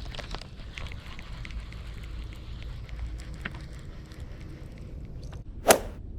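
Heavy rain pattering, heard as a steady hiss full of small drop ticks, with wind rumbling on the microphone. A single loud sharp knock near the end.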